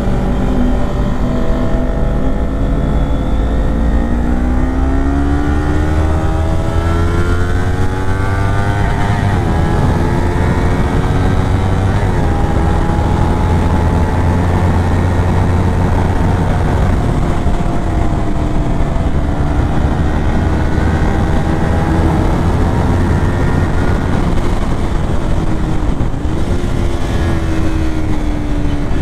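Kawasaki Ninja 400 parallel-twin engine pulling up through the gears while riding: its pitch climbs for several seconds, dips briefly at gear changes about nine and twelve seconds in and again near the end, and holds steady in between. Wind noise rumbles low underneath.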